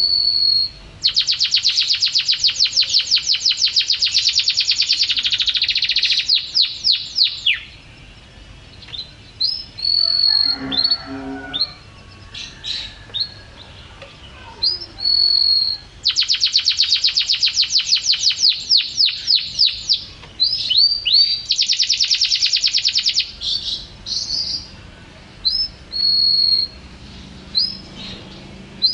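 Domestic canary singing: two long, very fast rolling trills of closely packed high notes, one about a second in and one about halfway, with short whistled notes and brief pauses between them.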